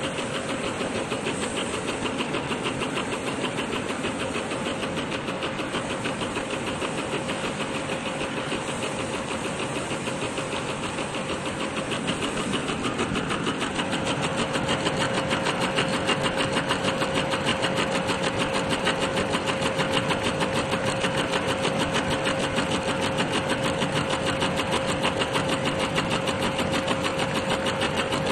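Heating-wire sewing machine running steadily, its needle mechanism stitching in a fast, even rhythm. About halfway through it grows louder and a steady hum comes in.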